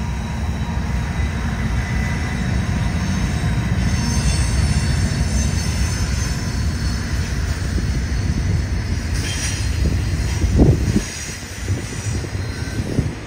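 Freight train passing on a curve: the trailing Kansas City Southern diesel locomotive, then double-stack container cars, rolling by with a heavy low rumble and faint high wheel squeal. A loud bang comes about ten and a half seconds in, after which the rumble falls away.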